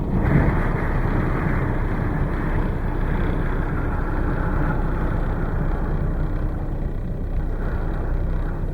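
Strong blizzard wind blowing around and buffeting a stationary car, heard from inside the car as a steady, noisy rush heaviest in the low end.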